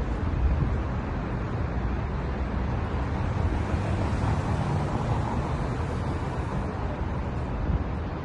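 Steady road traffic noise: cars running by with a low rumble, with no sharp revs or horn.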